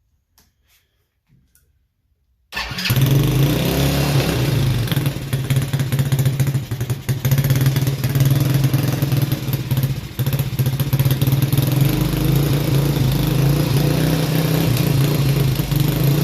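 Small ATV engine on a cheap four-wheeler starting about two and a half seconds in, after a few faint clicks, then running steadily at idle. It shows the just-repaired quad runs.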